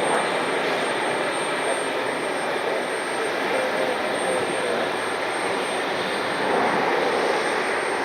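Business jet's engines at takeoff power, a steady rushing jet noise that swells slightly near the end.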